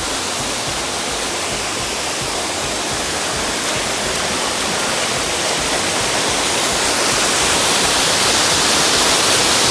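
Waterfall cascade pouring: a steady, dense rush of falling water that grows louder over the last few seconds.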